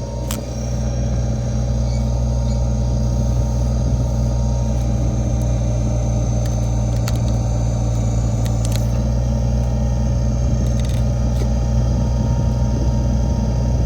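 Small tractor's engine running steadily under load while its backhoe digs out a stump, with a few brief sharp knocks.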